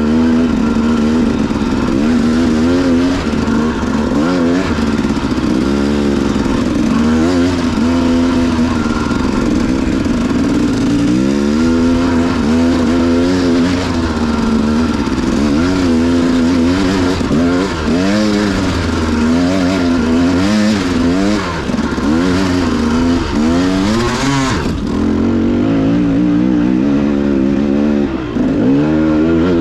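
Dirt bike engine being ridden, its pitch rising and falling again and again as the throttle is opened and closed and gears change.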